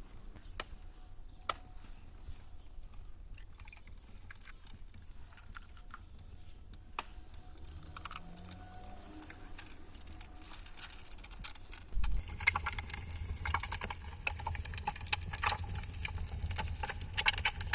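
Scattered light clicks and clinks of dishes and utensils being handled, growing busier about twelve seconds in.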